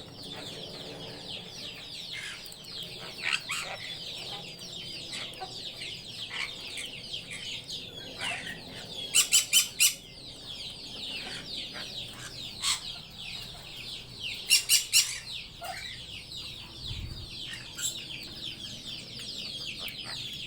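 Many birds chattering together in a dense, unbroken mass of short high chirps, with two bursts of about four loud, sharp calls in quick succession, one near the middle and one about five seconds later.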